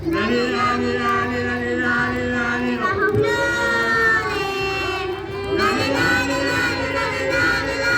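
A group of young voices singing a chant together, on long held notes that rise and fall.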